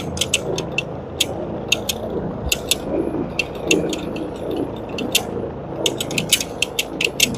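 Carpet-cleaning equipment working the carpet: a steady running noise with rapid, irregular clicks and rattles over it.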